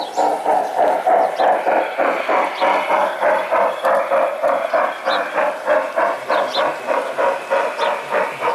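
G-scale model train running on garden track, making a steady rhythmic beat of about four strokes a second.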